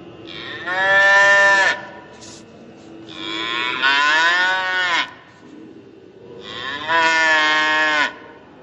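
An ox lowing: three long, drawn-out moos, the middle one bending in pitch.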